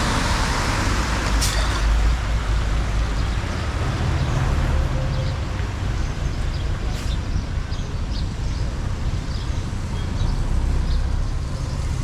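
Steady rushing of floodwater draining away through a cleared drain, with a deep rumble and two brief sharp knocks, about a second and a half in and again about seven seconds in.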